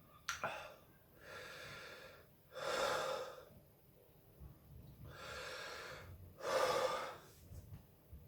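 A man breathing hard in a string of loud gasping breaths in and out through the burn of a hot dried chilli pepper, his mouth and throat on fire. There is a short click just after the start.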